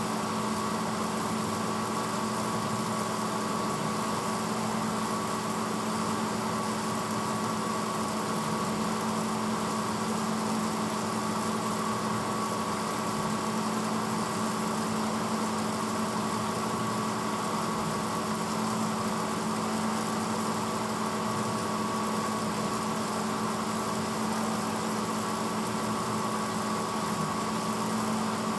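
1986 Hotpoint Potwasher dishwasher running steadily mid-cycle: a constant motor hum with a steady hiss, unchanging throughout.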